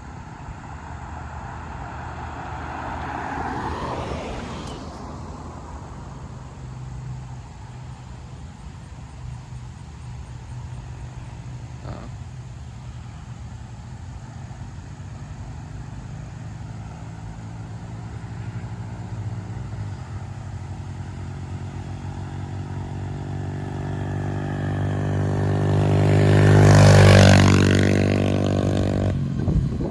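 Motor vehicle engines running steadily, with a vehicle passing a few seconds in and a much louder one passing near the end, its engine pitch dropping as it goes by.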